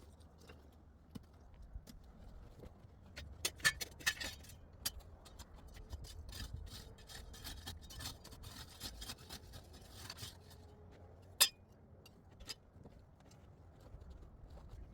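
Hard objects clinking, knocking and scraping against each other: a cluster of sharp knocks about three to four seconds in, scraping through the middle, and one loud knock near the end.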